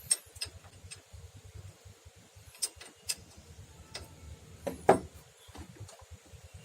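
Scattered sharp clicks and knocks from tools and parts being handled during work on a steering gearbox, with one louder knock about five seconds in.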